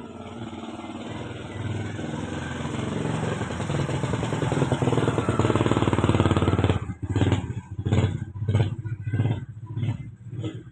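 An engine running steadily and growing louder, then revved in short repeated bursts about twice a second from about seven seconds in.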